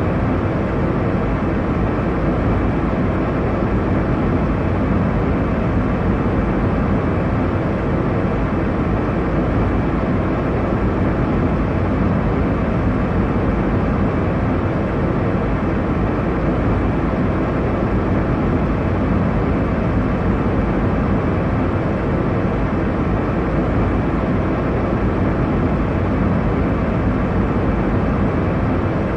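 Steady airliner cabin noise in flight: an even, deep rushing hum of engines and airflow, with no changes or distinct events.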